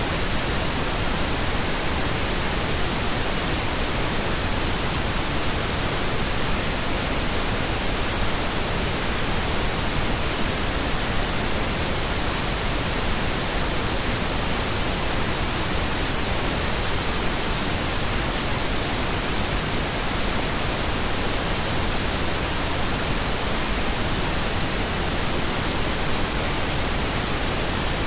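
Steady synthetic pink noise: an even, unbroken hiss that never changes in level.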